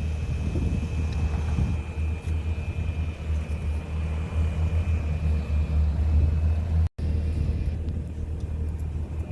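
Steady low engine rumble with a faint steady whine above it; the sound drops out for an instant about seven seconds in.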